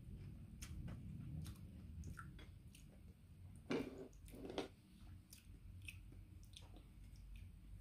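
A person chewing and biting mango: faint wet mouth clicks and smacks, with two louder bites a little under a second apart about halfway through.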